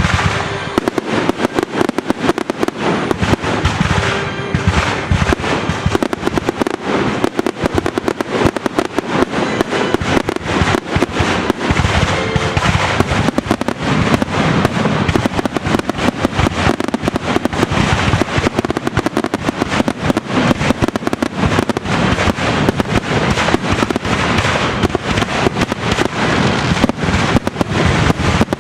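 Fireworks bursting in a dense, rapid barrage: many sharp bangs and crackles each second with no let-up, over orchestral music.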